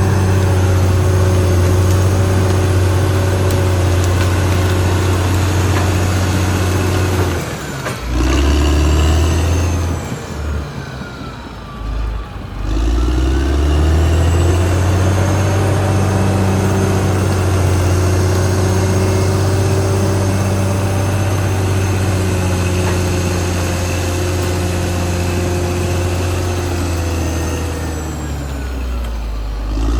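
Caterpillar D6R XL bulldozer's diesel engine running hard. It eases off about eight seconds in and drops low for a couple of seconds, then revs back up and holds a steady working pitch.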